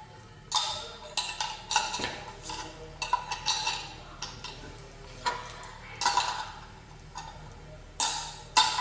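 Hard plastic and metal parts of a manual meat grinder knocking and clicking as it is handled and worked by hand: about fifteen sharp, irregularly spaced clicks and clinks, each with a short ring.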